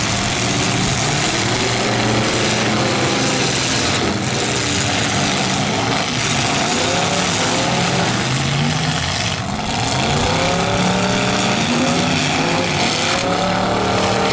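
Several demolition-derby cars' engines revving hard at once, their pitches rising and falling over and over as the cars accelerate, back up and ram each other.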